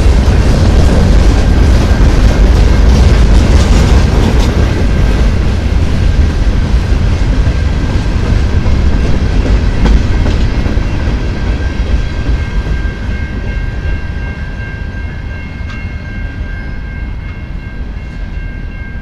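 Freight train of boxcars rolling past close by, the steel wheels running over the rails with a faint steady high tone underneath. The sound fades steadily as the end of the train moves away.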